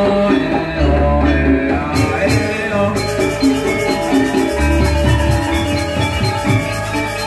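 Balinese gamelan music: ringing bronze metallophones over long low gong-like notes, with drums, growing denser and brighter about three seconds in.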